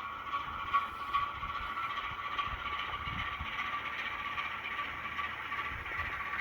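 Sound decoder in an N gauge Graham Farish Class 08 model locomotive playing a diesel shunter engine sound through its tiny speaker: a steady, thin, high-pitched engine hum with a few faint clicks.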